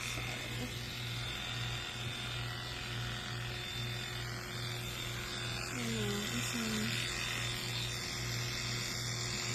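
A steady low electric buzz, with a short low vocal sound about six seconds in.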